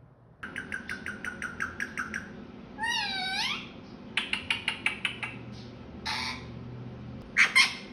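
Indian ringneck parakeet making non-word calls: two runs of rapid chirps, about eight a second, with a wavering whistled call between them, then a loud squawk near the end.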